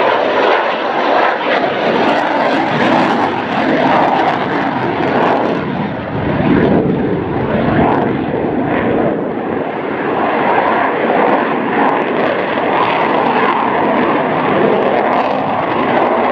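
Loud, steady rushing jet noise from a Eurofighter Typhoon flying a slow pass, easing slightly about six seconds in and then building again.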